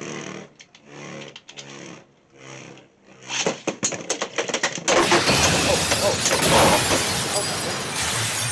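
Beyblade X tops clashing in a plastic stadium: a loud, dense clatter of hits and scraping starts suddenly about halfway through and keeps going.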